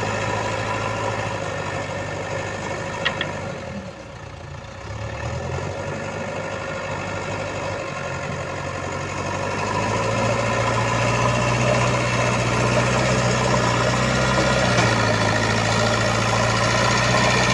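Heavy diesel engine running steadily near idle. It dips briefly about four seconds in, then gets louder from about ten seconds in.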